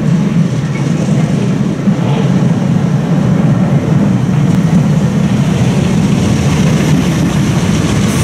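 Passenger train running into a station, a steady low rumble throughout. It draws alongside near the end.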